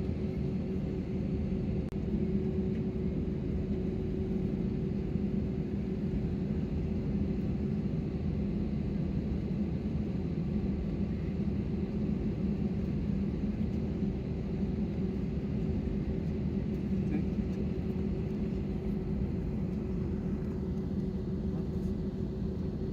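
Steady cabin rumble inside an Airbus A320 on the ground after landing, with a low, even hum from its idling engines.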